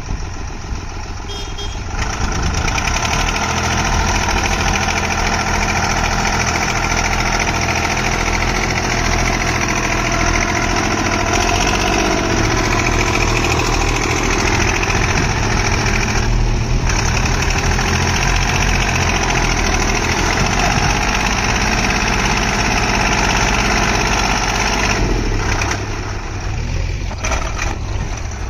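Heavy diesel engine running steadily. It gets louder about two seconds in, holds, and eases off near the end.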